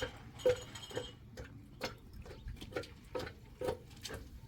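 Steady rhythmic knocking, a little over two knocks a second, each a short hollow knock with a brief ring.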